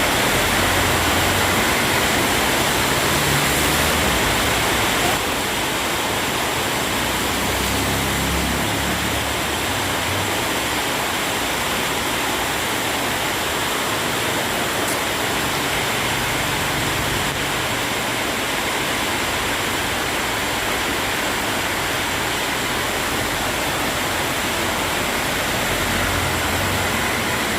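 Heavy rain falling, a steady dense hiss that eases slightly about five seconds in, with occasional low rumbles underneath.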